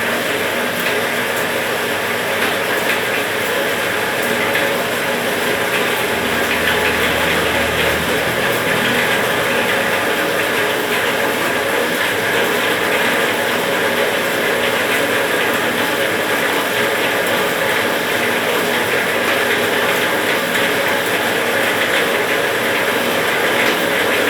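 A multipurpose skewering machine running steadily, its mechanism clattering with a dense stream of fine clicks.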